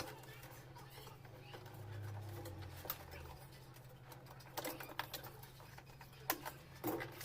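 Scattered clicks and knocks of parts and tools being handled during reassembly, over a low steady hum.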